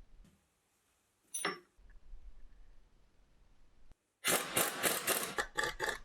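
A single sharp clink about a second in, then a run of rapid mechanical clattering over the last two seconds.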